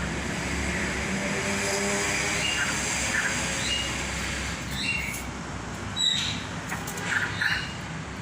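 Caged birds giving short high chirps and squawks, with louder calls about six and seven seconds in, over a steady rushing noise that eases after about five seconds.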